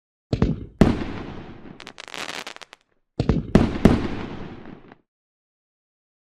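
Fireworks sound effect: two sharp bangs in the first second, each trailing off slowly, then a brief crackle, then after a gap a quick cluster of three or four bangs fading out. The groups are separated by dead silence, as in an edited effects track.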